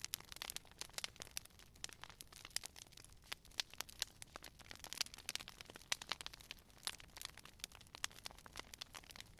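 Campfire crackling: a dense, irregular run of sharp pops and snaps from burning wood over a faint, steady hiss.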